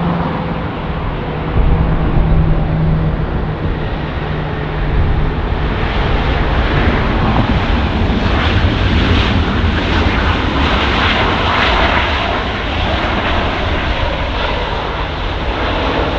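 Heavy jet airliner on its landing approach, engine noise building and growing louder from about six seconds in.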